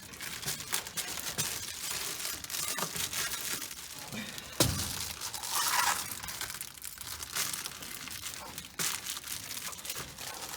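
Adhesive-backed insulation sheeting being pressed and smoothed down onto a car floor to work out air bubbles: crinkling and rustling with many small clicks, and one sharp knock about four and a half seconds in.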